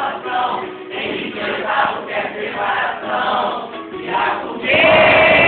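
A group of voices singing along with music, like a crowd or choir singing together. It swells louder about three-quarters of the way through, on a held note.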